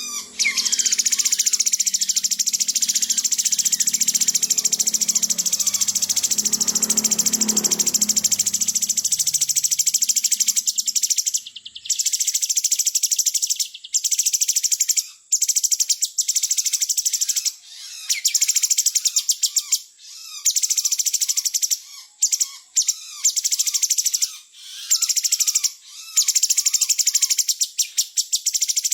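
Cucak cungkok songbird singing a very fast, high chattering trill. It runs almost unbroken at first, then from about eleven seconds in comes in runs of a few seconds with short pauses between.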